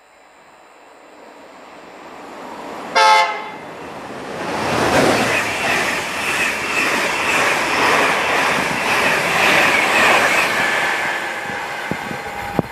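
Non-stopping train approaching and passing through the station: a short horn blast about three seconds in, then a loud rush of wheel and air noise as it goes by, easing off near the end.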